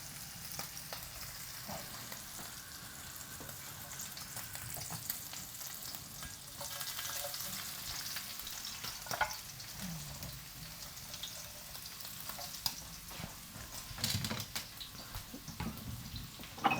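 Thin-sliced garlic frying in beef tallow in a pan, a steady sizzle, with a few short knocks from the pan or a stirring utensil.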